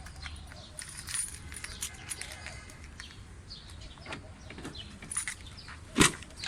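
Light metallic clicks and taps of parts and tools being handled, with one sharp knock about six seconds in.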